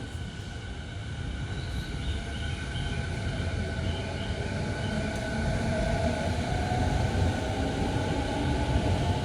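A 15-car electric commuter train on the Sobu Rapid Line running along the platform and growing steadily louder, with steady tones over the rumble of the wheels on the rails.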